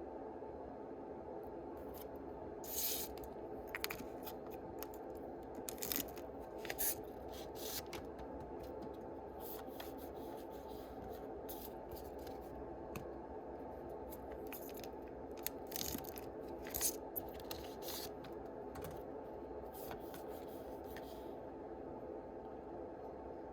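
Yu-Gi-Oh booster packs being opened and their cards handled: short, irregular crinkles and rustles of foil wrappers and cards rubbing and sliding, in clusters, over a steady low background hum.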